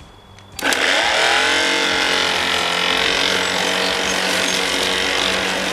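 Small electric lawnmower switched on about half a second in, its motor and freshly sharpened blade spinning up and then running at a steady pitch; it even sounds a little better with the sharpened blade.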